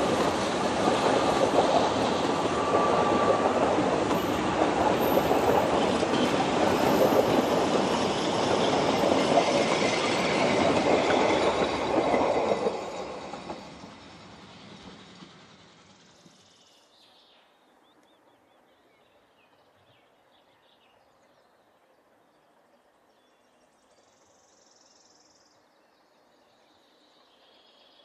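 Welsh Highland Railway narrow-gauge passenger coaches rolling past at close range, wheels running over the track. The sound fades away from about halfway through as the end of the train passes and draws off, leaving near silence.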